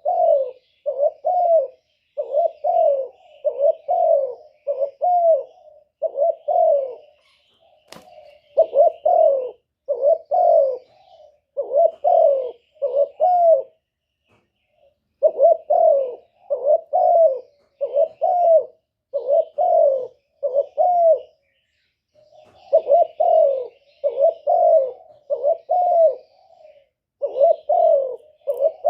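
Spotted dove giving its soft 'gù' coo: short, low notes that rise and drop, about one a second in runs of several, broken by short pauses. This is the call that provokes wild spotted doves and draws them in. Faint chirps of small birds sound above it, and a single sharp click comes about eight seconds in.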